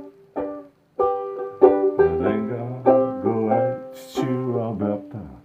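Instrumental break in a folk song: a plucked string instrument picks out the melody in separate ringing notes, with lower notes joining from about two seconds in.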